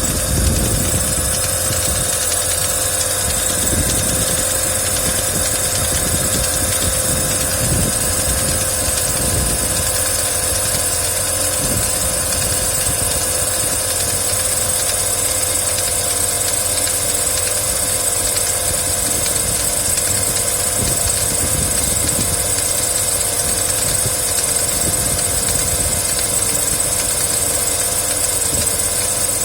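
Engine idling steadily, with a knock that has come back again.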